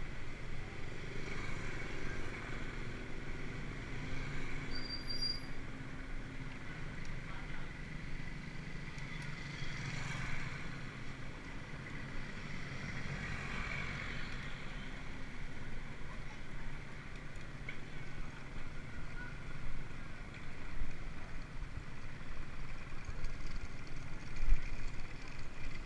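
Steady road and wind noise of a bicycle ride, with a low rumble throughout. Two louder swells of noise come about ten and fourteen seconds in, like vehicles passing.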